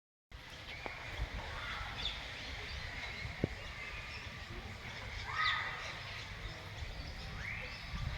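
A few short bird calls over faint, steady outdoor ambience.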